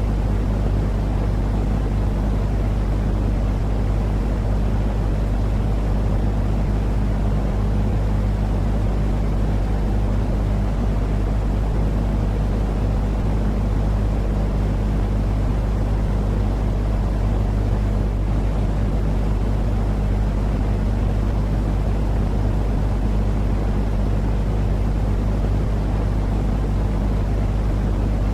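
Steady sleep noise: an unchanging low rumble with a constant hum underneath, heavy in the bass and soft in the treble, like a droning engine or cabin.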